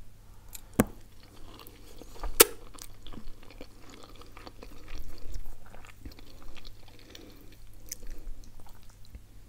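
A woman chewing a mouthful of creamy spaghetti carbonara, with soft wet mouth sounds. There is a sharp click about a second in and a louder one about two and a half seconds in.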